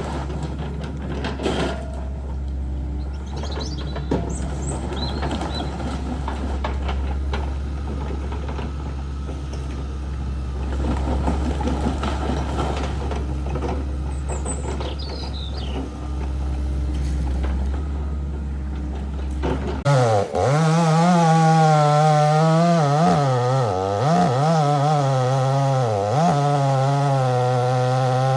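A heavy machine's engine drones steadily at a low pitch, with a few birds chirping. About two-thirds of the way through, it cuts abruptly to a chainsaw running loud, its revs sagging and recovering as it cuts into wood.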